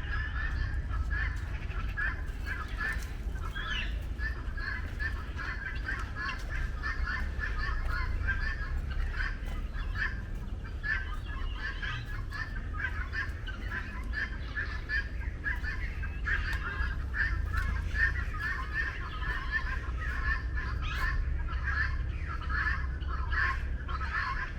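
A dense chorus of many birds calling at once, their short calls overlapping without a break, with a steady low rumble underneath.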